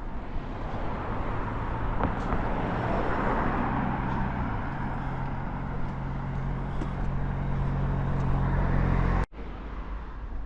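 Motor vehicle engine running close by, with road noise swelling about three seconds in and the engine note shifting about halfway through; the sound cuts off abruptly near the end, leaving quieter street background.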